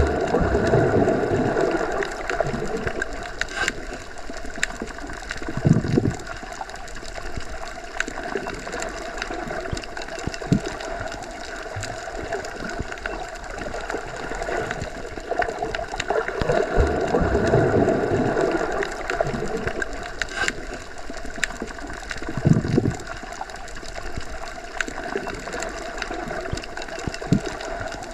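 Underwater ambience as heard submerged in a pool or lake: a steady muffled rushing that swells and fades twice, with a few dull low thumps and faint scattered clicks.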